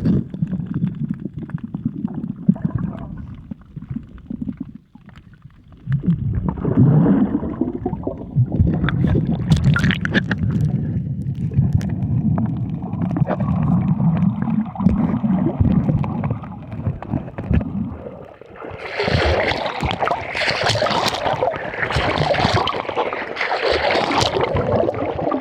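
Motorboat under way: a low rumble with water splashing and gurgling along the hull. The sound turns louder and hissier over the last six seconds or so.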